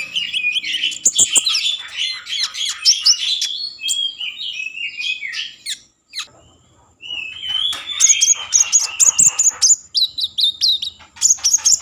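Konin songbird singing a fast, varied song of high chirps, trills and rapid repeated notes. It breaks off for about a second midway, then starts again.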